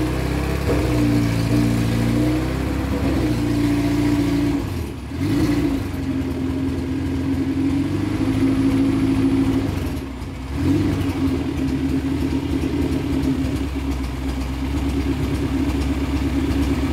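Honda K24 four-cylinder, swapped into a Civic hatchback, running shortly after its first start-up, its revs stepping up and down. Twice the revs sag, nearly dying, then pick back up.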